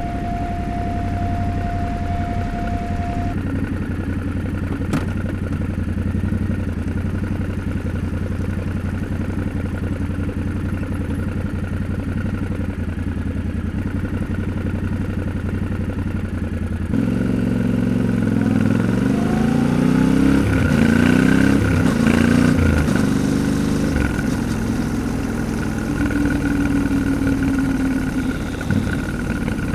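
Yamaha Ténéré 700's parallel-twin engine idling steadily, then about seventeen seconds in it revs and pulls away, the pitch climbing in steps through the gear changes before settling into a steady cruise; it eases off again near the end.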